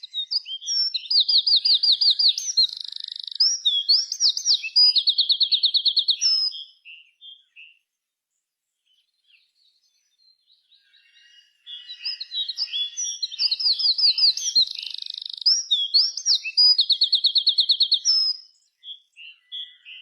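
A songbird singing two long, loud phrases of rapid trills and varied whistled notes, each about six to seven seconds long, with a pause of a few seconds between them.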